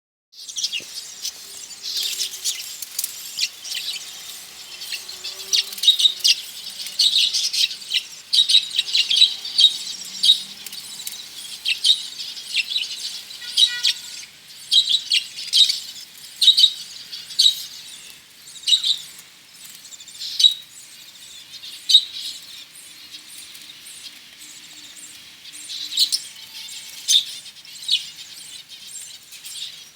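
A flock of budgerigars chattering and chirping, with many short high chirps close together, thinning out in the second half.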